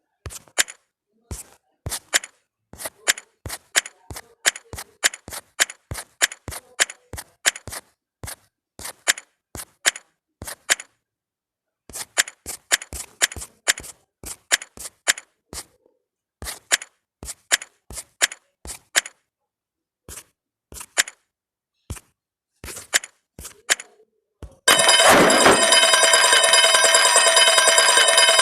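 Carrom pieces clacking: sharp wooden clicks, two or three a second with short pauses. Near the end, a loud, steady, buzzing noise with several held tones cuts in and drowns them out.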